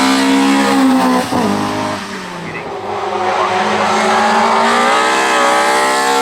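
Hill-climb race car engine at hard acceleration, with a quick gear change about a second in, a brief easing around two seconds in, then the revs climbing again.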